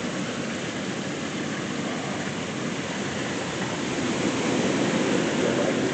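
Heavy hurricane rain pouring down steadily: a dense, even hiss of rain.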